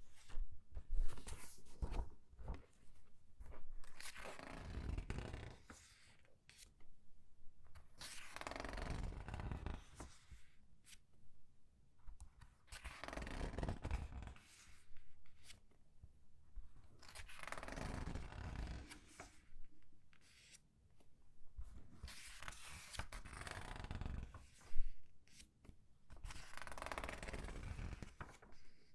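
Comic book pages turned by hand one after another, each turn a crinkly rustle of thin paper as the page is squeezed, about every four seconds, with a few sharp paper snaps among them, the loudest near the end.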